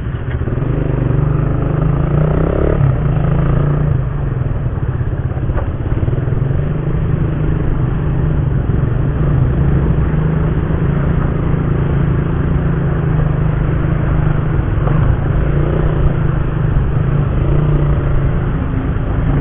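Motorcycle engine running steadily while riding, getting louder in the first second as it gets under way, with wind rumbling on the microphone.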